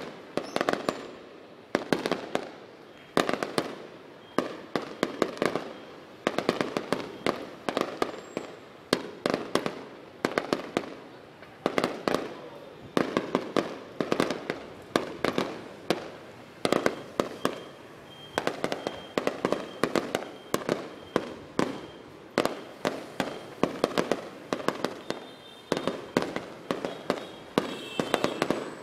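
Fireworks display: shells bursting in a continuous run of sharp bangs, the bangs bunched in volleys about one a second.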